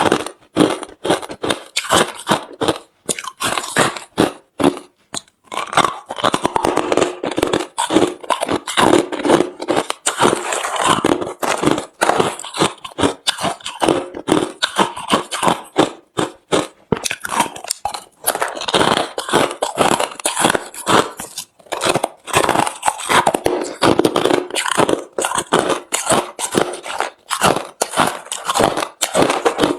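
A person biting and chewing hard refrozen crushed ice close to the microphone: loud, rapid crunching and crackling, with short pauses between mouthfuls.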